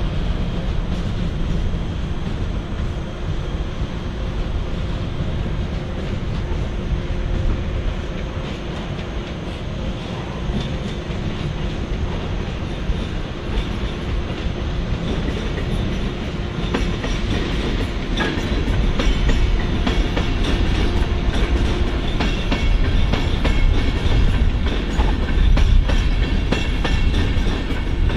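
Train running on the tracks with a steady rumble and wheels clattering over rail joints and points. The clatter grows denser and louder in the second half.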